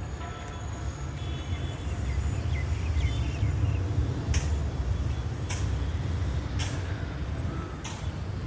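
Road traffic: a low vehicle rumble that swells through the middle, with four short hisses about a second apart in the second half.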